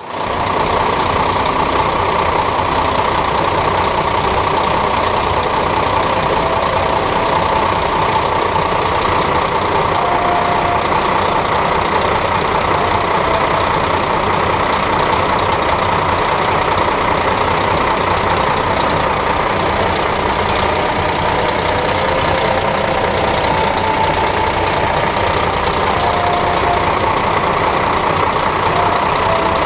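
Diesel engine of the Jidai no Yoake no Monogatari sightseeing diesel railcar idling steadily while the train stands stopped.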